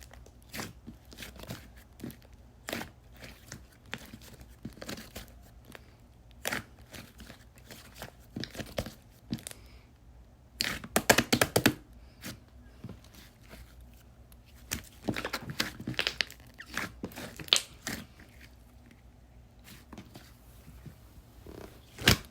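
Slime being squeezed, stretched and poked by hand, making scattered wet clicks and crackles. There is a dense run of rapid crackling about halfway through and a loud snap near the end.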